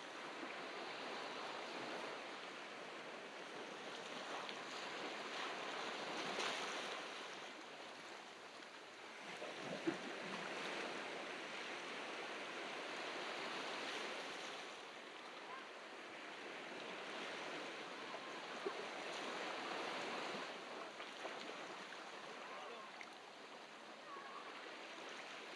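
Ocean surf breaking and washing on a beach, swelling and falling back every several seconds.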